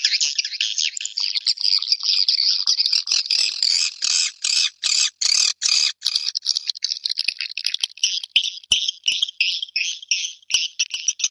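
White-nest swiftlets twittering in a dense, high-pitched chatter. Around the middle comes a run of strong, evenly spaced pulsed calls, about two a second, followed by quicker short chirps. This is the kind of swiftlet call track played to lure swiftlets into a nesting house.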